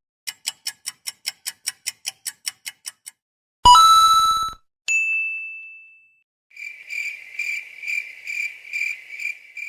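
A string of short electronic sound effects: a quick, even run of about fourteen ticks, then a brief loud chime, a single high ding that rings out and fades, and finally a high, rapidly pulsing trill much like a cricket's chirping.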